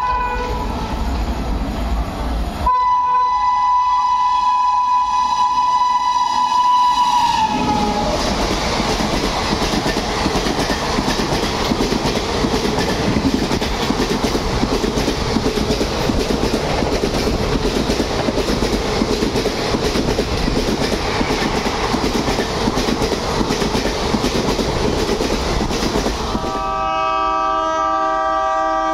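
Indian Railways train horn blowing one long single-pitch blast for about five seconds, its pitch dipping as it ends. Then a high-speed train passing with loud rushing wheel and rail noise for around eighteen seconds. Near the end a different horn sounds, several tones at once.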